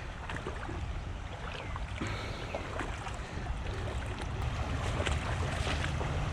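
Shallow creek water splashing and trickling, with scattered small splashes, over a low rumble of wind on the microphone.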